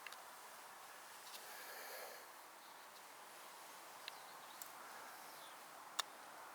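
Near silence: faint background hiss with a few small, sharp clicks, the loudest about six seconds in.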